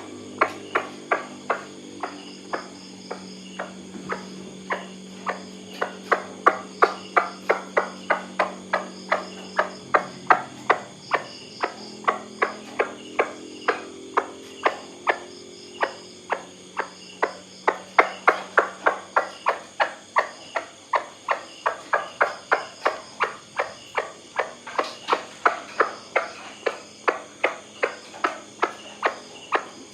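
White-breasted waterhen giving its monotonous repeated 'kwak' call, about two to three notes a second, without a break, over a steady high drone of insects.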